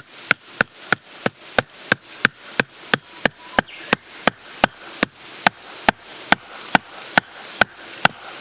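A steady run of sharp knocks, about three a second, over a soft steady hiss.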